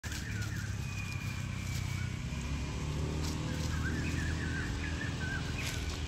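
Small birds chirping, a thin whistled note early on and a run of quick twittering notes in the middle, over a steady low rumble.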